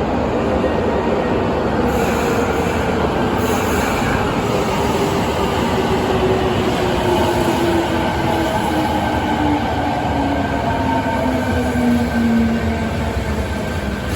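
Fukuoka City Subway 1000N-series train running, with a steady rumble and a motor whine that falls slowly and steadily in pitch across the whole stretch as the train slows.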